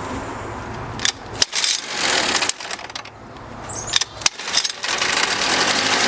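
1971 Mercury 7.5 hp two-stroke outboard motor being started, its carburettor freshly cleaned: a few sharp pops and ragged sputters, then the engine catches about five seconds in and runs steadily.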